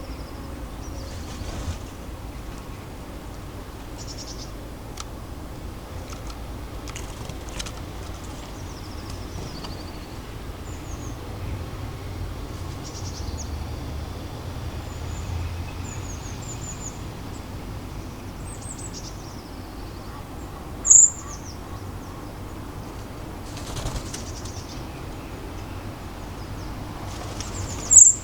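Small garden birds at a feeder: scattered high chirps and short calls, with a few brief flurries of wingbeats. Two sharp, loud high calls stand out, one about two-thirds of the way through and one at the very end. A low steady rumble runs underneath.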